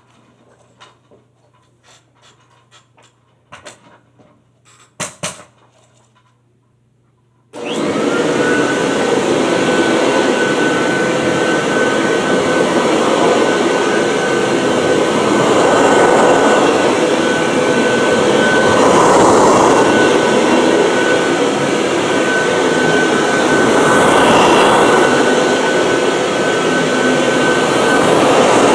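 A few faint clicks and knocks, then about a quarter of the way in a 1979 Kirby Tradition upright vacuum cleaner switches on suddenly. Its motor whine rises briefly to a steady pitch, and it runs loudly and steadily with slight swells in level.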